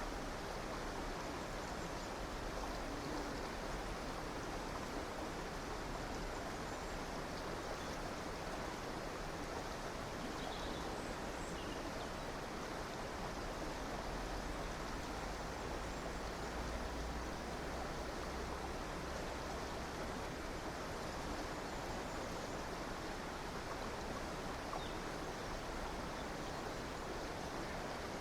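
River water flowing steadily, an even rushing sound, with a few faint bird chirps about ten seconds in and again near the end.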